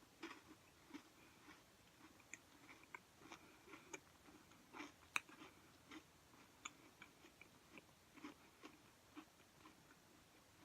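Faint, irregular crunching and small mouth clicks of a person chewing a peanut butter chocolate granola cup.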